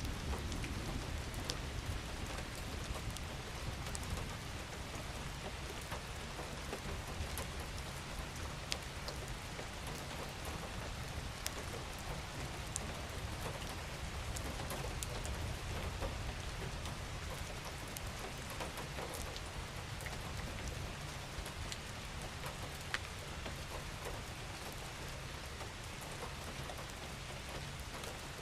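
Steady rain falling, with single drops ticking sharply here and there over a low steady rumble.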